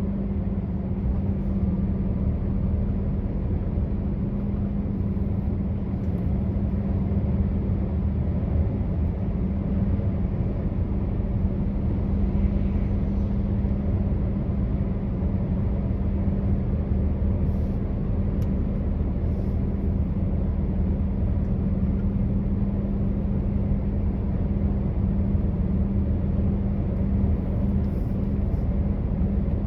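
Truck engine and road noise while driving: a steady low drone with an even hum that holds the same pitch throughout.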